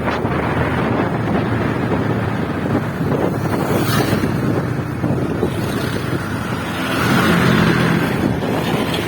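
Motorcycle engine running while riding, with wind rushing over the microphone. The engine note gets louder about seven seconds in.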